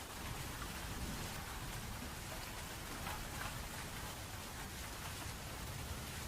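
Steady rainfall with scattered individual drop splashes over a low, even rumble.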